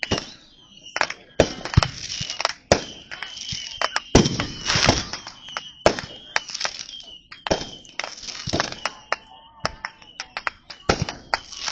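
Fireworks going off: an irregular string of sharp cracks and pops, with a heavier boom about four seconds in.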